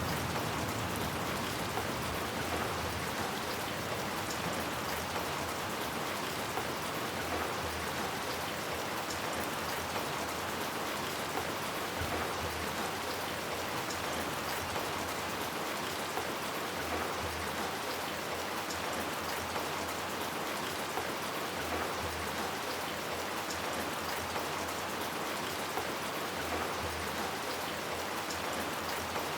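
Steady, even rainfall with scattered drop ticks, the tail of a thunder rumble fading out at the very start.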